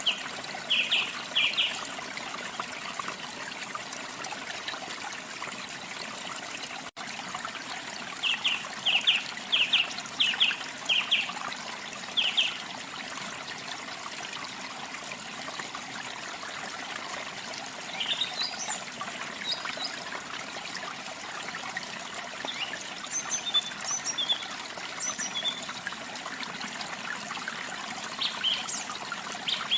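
Running water trickling steadily, as from a stream or small waterfall, with songbirds chirping over it: runs of short sharp notes near the start and again about eight to twelve seconds in, then scattered higher chirps in the second half.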